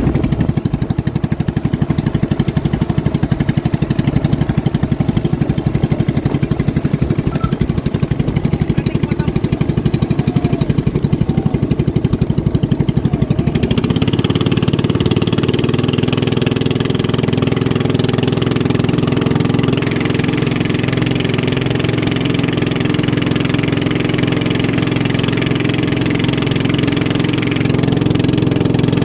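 Racing motorboat engines running hard, a loud continuous drone. About halfway through the sound changes abruptly, the fine rapid pulsing giving way to a steadier, fuller drone.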